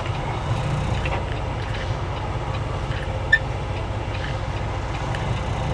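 Semi truck's diesel engine running steadily at low revs, a low pulsing rumble heard from inside the cab, with one short click a little past halfway.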